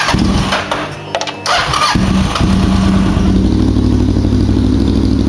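Kawasaki Ninja 650R's parallel-twin engine starting through an aftermarket Yoshimura carbon-fibre exhaust. It catches about two seconds in and settles into a steady, pulsing idle.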